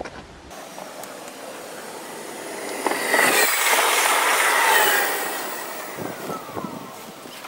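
Multiple-unit passenger train passing close alongside the platform. It grows louder, peaks, then fades as it draws away, its whine falling in pitch as it goes by.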